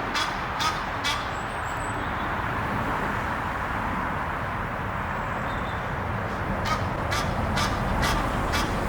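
Egyptian geese calling in short, harsh, repeated honks: a few in the first second, then a run of about five near the end. A steady hum of road traffic sits underneath.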